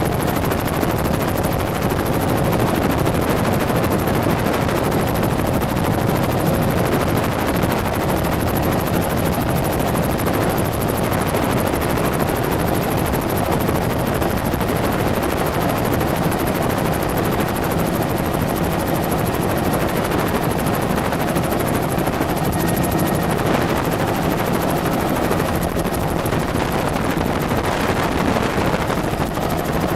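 Helicopter in flight, heard from aboard: a loud, steady drone of rotor and engine that holds even throughout.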